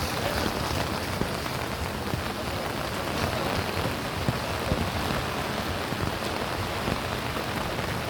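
Steady rain falling, with a few sharper taps now and then.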